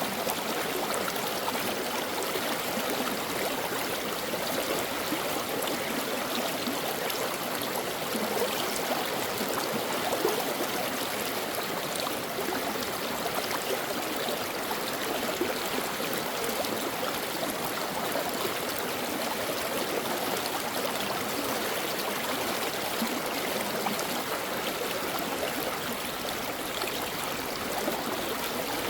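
Steady running water of a stream or brook, an even rushing and burbling over rocks.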